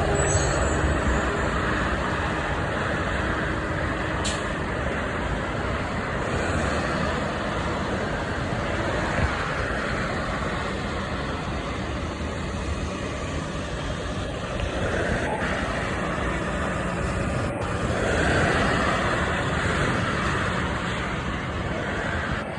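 Road traffic noise: motor vehicles passing steadily, swelling with a louder passing vehicle about three quarters of the way through.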